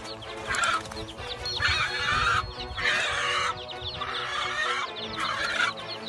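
A bird calling loudly and repeatedly, about once a second, while it flaps and struggles with an attacker, over background music.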